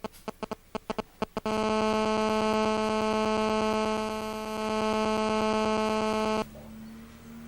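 A quick run of sharp clicks, then a loud, steady electrical buzz for about five seconds that cuts off suddenly, leaving a fainter low hum.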